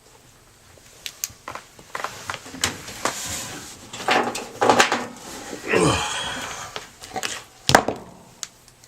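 Knocks, clicks and clatter of washing machine parts and panels being handled, with a short sound sliding down in pitch about six seconds in and a sharp knock near the end.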